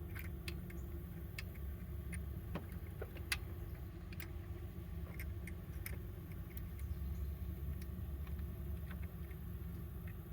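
Scattered light metallic clicks and taps of hand tools and parts being worked while fitting a timing belt tensioner, over a steady low rumble.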